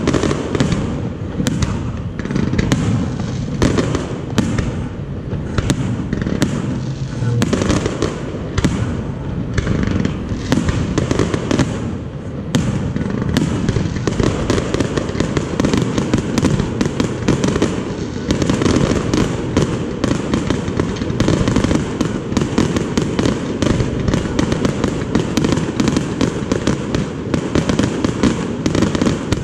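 Aerial fireworks display: shells bursting in a continual string of bangs and crackles over a constant rumble. The crackling gets much denser and quicker about two-thirds of the way through.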